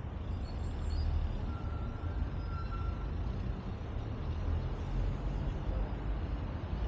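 Road traffic circulating at a busy junction: a steady low rumble of engines and tyres. A faint high squeal lasts about a second and a half, starting near two seconds in.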